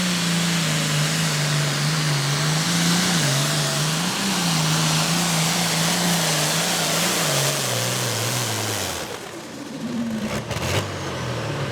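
Pulling tractor's engine running flat out under load down the pulling track, its pitch wavering up and down over a dense high roar. Its pitch drops and fades away about three-quarters of the way through.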